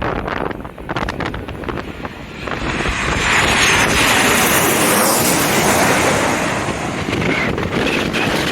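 Strong wind buffeting the microphone, then from about two and a half seconds in a jet airliner passing low overhead on landing approach: a loud rising rush of engine noise with a faint falling whine, easing off slightly near the end.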